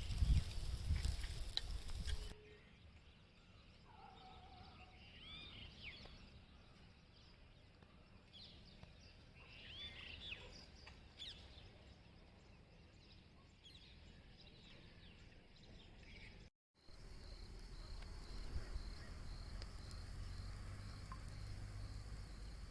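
Outdoor ambience: small birds chirping on and off over a low background noise, and in the last few seconds a steady pulsing insect trill, like crickets. The sound cuts abruptly between these parts, and it opens with a couple of seconds of louder low rumbling.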